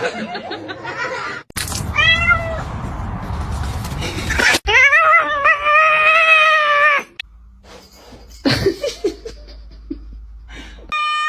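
Domestic cat meowing: a short meow about two seconds in, a long drawn-out meow from about five to seven seconds, and another long meow starting near the end, with noisy stretches and sudden changes in background between them.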